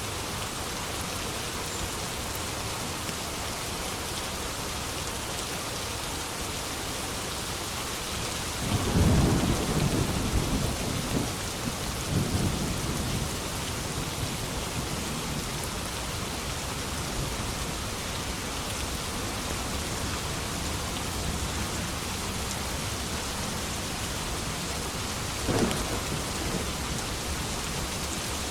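Steady heavy rain hissing throughout. A long roll of thunder comes in about a third of the way through and rumbles on for several seconds, and a shorter, sharper thunderclap follows near the end.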